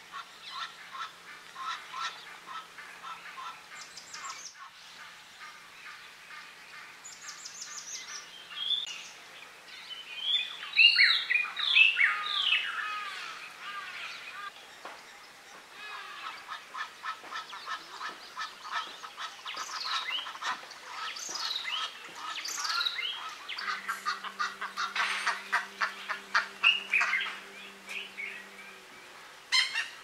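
A chorus of many wild birds calling at once, overlapping calls, some sweeping down in pitch, loudest about ten to thirteen seconds in. A faint steady low hum comes in near the end.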